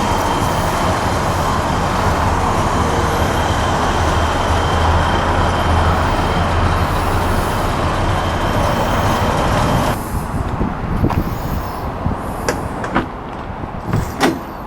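The 1966 Chevy C-10 pickup's 350 V8 running, a steady low drone with a faint high whine, which cuts off abruptly about ten seconds in. A few sharp clicks and knocks follow near the end.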